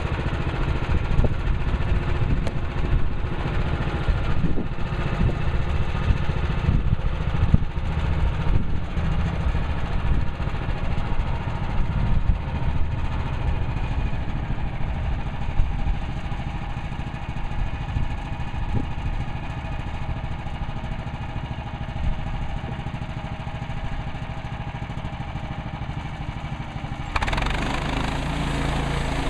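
Portable band sawmill's gas engine running steadily, with scattered light knocks. Near the end the sound changes abruptly to a louder, hissier one.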